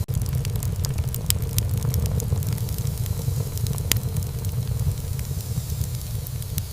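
Wood fire burning in a fireplace: crackling with scattered sharp pops over a steady low rumble of flames. One louder pop comes about four seconds in.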